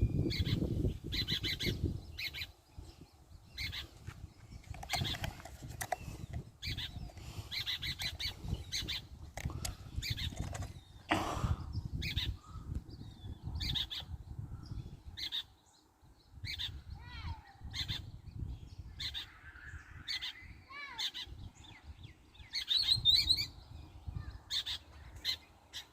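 Wild birds giving many short calls a second or so apart, with some gliding, warbled phrases about two-thirds of the way through and a burst of calls near the end, over a low rumble.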